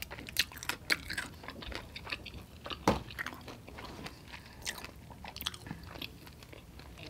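A person chewing a mouthful of chicken wing meat with lips closed: a string of soft mouth clicks, the sharpest a little under three seconds in.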